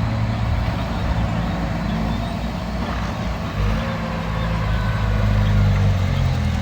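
Heavy machine's diesel engine running steadily, its pitch shifting and its level rising a little past the middle as it is worked harder.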